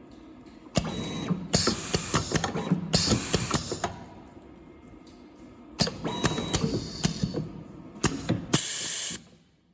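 Semi-automatic USB cable soldering machine working through its cycle: two bursts of mechanical clattering and clicking, about three seconds each, with several short loud hisses in them; the second burst stops sharply near the end.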